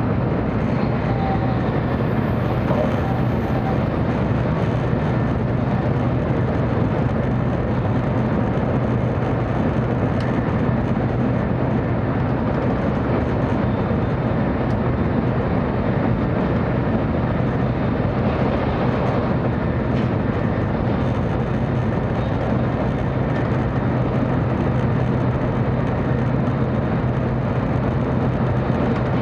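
Cabin running noise of a 700-series Tokaido Shinkansen train: a steady rush and rumble of wheels, track and air, with a constant low hum.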